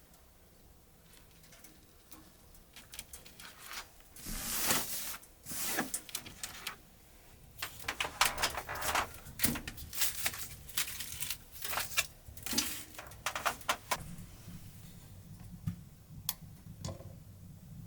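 Irregular clicks, knocks and rustles of objects being handled at close range, busiest through the middle and thinning out near the end.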